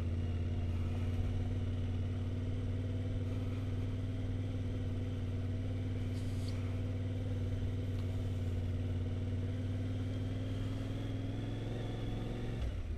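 Yamaha Ténéré 700's parallel-twin engine pulling steadily under way, its pitch creeping slowly up as the bike gathers speed, with a brief dip near the end.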